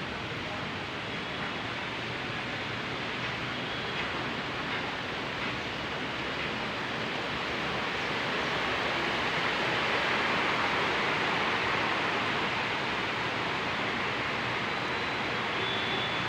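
Heavy rain falling steadily as an even hiss, growing a little heavier about halfway through.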